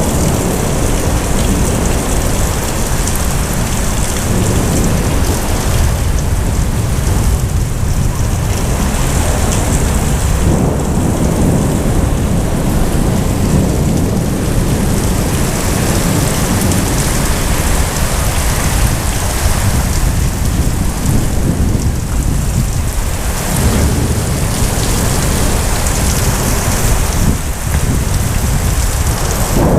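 Heavy rain pouring steadily during a thunderstorm, with a continuous low rumble of thunder beneath it.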